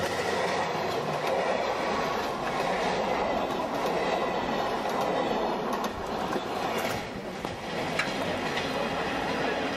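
A train running along the track, a steady rumble of wheels on rails with scattered clicks.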